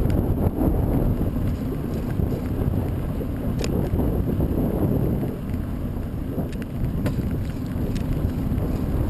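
Wind buffeting the camera's microphone while riding into a headwind: a heavy, steady low rumble, with a few faint clicks or rattles about a third and two thirds of the way through.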